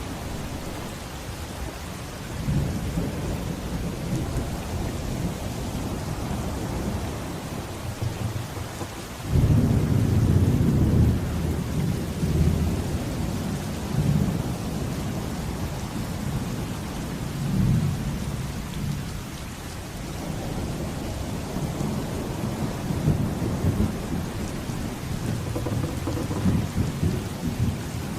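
Steady rain with rolling thunder. A loud rumble of thunder breaks in suddenly about nine seconds in and rolls on in waves for several seconds.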